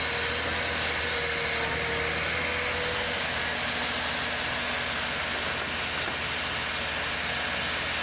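Heavy vehicle engine running steadily under a constant wash of mechanical noise, with a higher wavering whine over the first three seconds.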